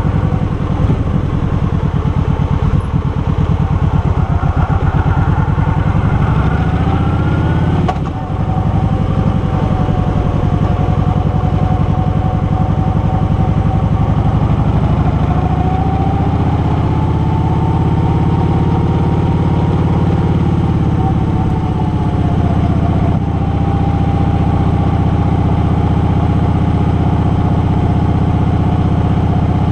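Car engine and exhaust heard from inside the car, accelerating away with its pitch rising over the first several seconds. A brief drop about eight seconds in, like a gear change, is followed by a steady run at road speed with a slight rise and fall midway.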